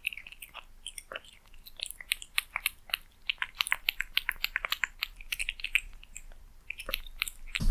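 A cat eating close up: rapid runs of small wet clicks and smacks of chewing, thickest in the middle and pausing briefly near the end.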